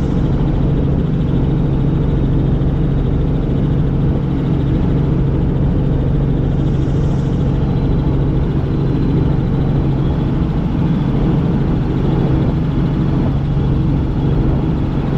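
Helicopter in flight: engine and rotor running with a loud, steady low drone.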